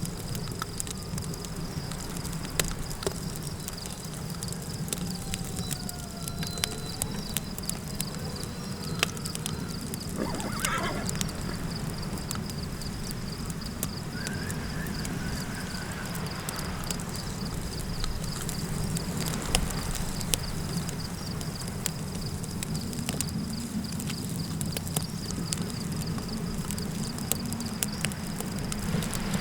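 Campfire crackling over a steady low wind rumble, with a constant high insect-like tone. About ten seconds in comes a short wavering animal call, which sounds like a horse's whinny, and there are a few faint gliding calls in the distance.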